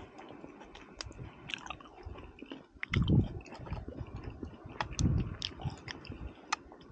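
A person chewing and biting into crisp fried fish close to the microphone, with many small crunching clicks and two louder spells about three and five seconds in.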